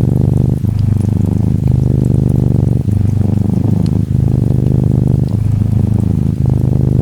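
Norwegian Forest Cat kitten purring steadily and close up, the purr breaking briefly with each breath every second or so. Gentle rain patters faintly behind it.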